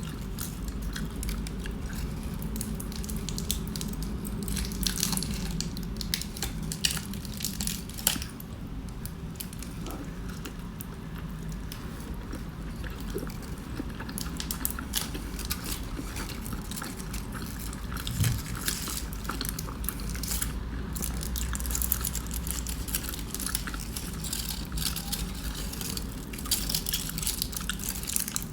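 Chewing and wet, squishy mouth sounds of someone eating a breakfast burrito, with many small irregular clicks and smacks.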